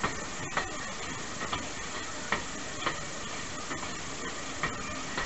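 Passenger train carriage rolling along the track: a steady rushing noise with sharp clicks and clacks from the wheels every half second to a second, irregularly spaced.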